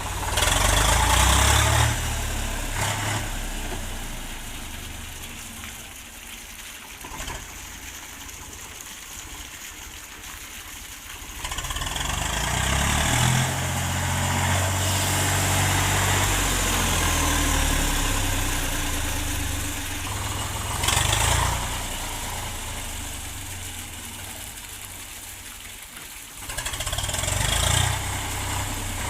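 Tractor diesel engine running, rising and falling in loudness several times, with louder spells about a second in, in the middle and near the end.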